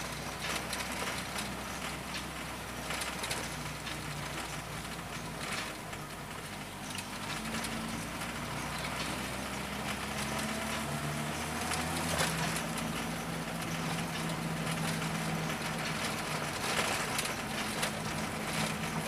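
Carburetted VW Voyage AP four-cylinder engine, heard inside the cabin, running at low revs as the car creeps along, its note stepping up and down with the throttle. A few knocks and rattles sound as the car rides over a potholed street.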